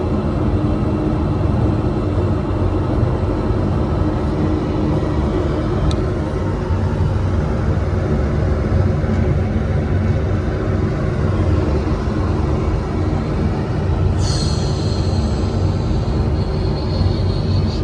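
A running Carrier rooftop HVAC unit: a steady loud machine rumble with a low hum. A high whistle comes in near the end and holds.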